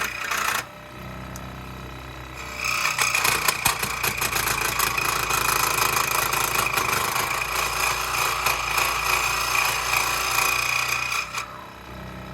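Power saw running with its motor humming, and a blade cutting through wood from a couple of seconds in until near the end, when the cut finishes and the saw quietens.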